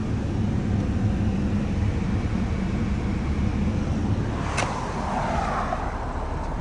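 1996 Jaguar Vanden Plas running with its air conditioning on: a steady low hum with a rush of air, and a single sharp click about four and a half seconds in.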